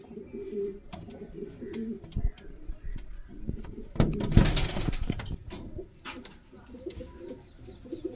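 Racing pigeons cooing in low, wavering tones, with scattered sharp clicks and a louder noisy scuffle about four seconds in.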